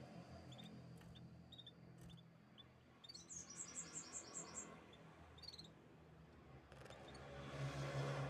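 Canaries chirping: short high chirps, then a quick trill of about eight rapid repeated notes midway, then a few more chirps. A low hum and hiss build toward the end.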